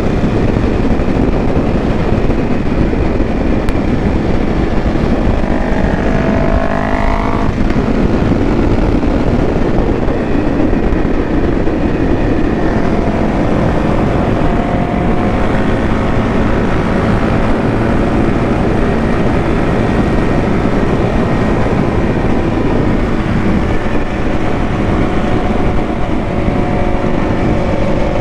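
Motorcycle running at cruising speed under heavy wind noise on the microphone. About six seconds in, an engine revs up with a rising pitch.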